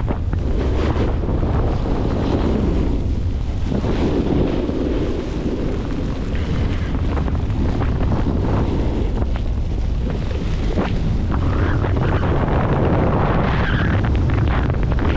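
Heavy wind buffeting the camera microphone: a loud, constant low rumble with irregular gusty rushes over it.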